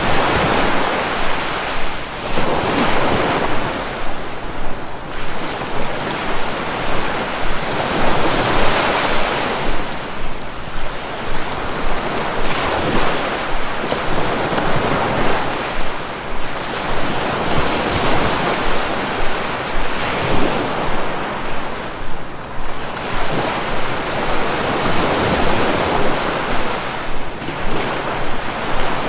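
Sea surf washing in over and over: a continuous rush of waves that swells and eases every few seconds.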